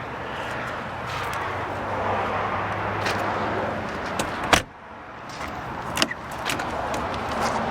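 A car door or tailgate slamming shut about halfway through, with a sharp thud, then a lighter latch click a moment later, over a steady background rush and low hum.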